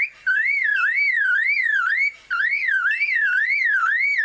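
A superb lyrebird mimicking a car alarm: a pure, electronic-sounding tone sweeping up and down about twice a second, broken by two short pauses, one just after the start and one near the middle.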